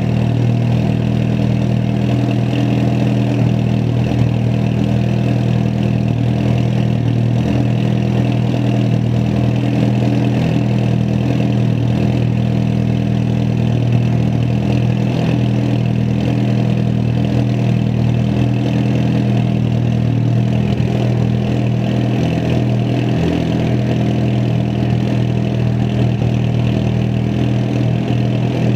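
Mitsubishi Lancer Evolution X's turbocharged 2.0-litre four-cylinder idling steadily through an Invidia N1 Racing exhaust, a steady low drone with no revs.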